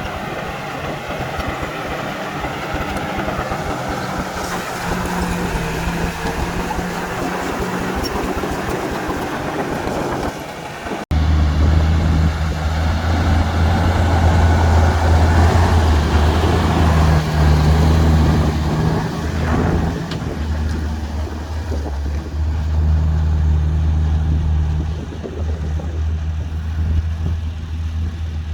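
Heavy diesel earthmoving machinery running. About eleven seconds in the sound cuts abruptly to a louder, deeper engine drone that rises and falls in pitch as the machine works.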